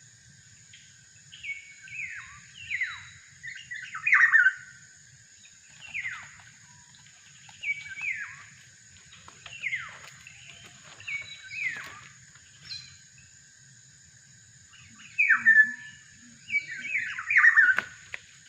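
Kepodang (black-naped oriole) calling: loud whistled notes that slur downward, given in short phrases of two or three, with a pause about two-thirds through and then a quicker run of calls near the end.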